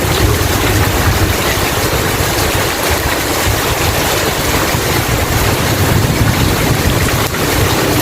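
Heavy rain pouring steadily, with a deep low rumble underneath.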